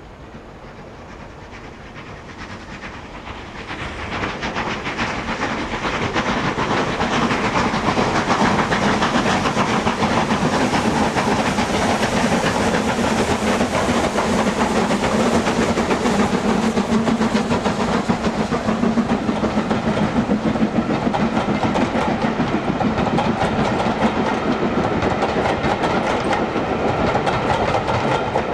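Double-headed train working up a steep 1 in 49 gradient, growing louder over the first six seconds as it nears, then running loud and steady with a rapid, dense clatter.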